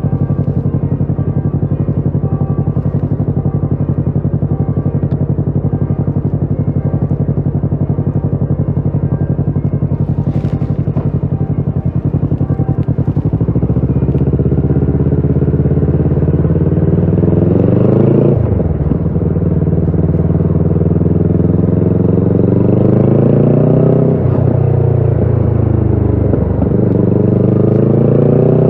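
Kawasaki Ninja 650's parallel-twin engine through a Shark SRC-4 full exhaust, running at steady revs for about the first half, then climbing in pitch under acceleration with about three sharp drops at gear changes.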